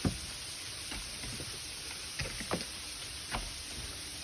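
Footsteps on snowy, slick steps: a few scattered dull thuds over a steady hiss.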